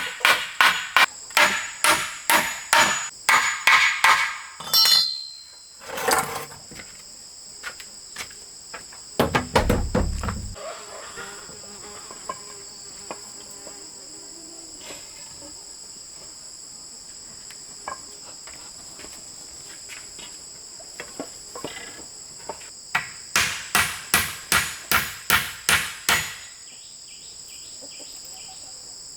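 Quick, even hammer blows, about three to four a second, in two runs: one at the start and another near the end, with a few stray knocks and a dull thud between them. Insects buzz steadily at a high pitch throughout.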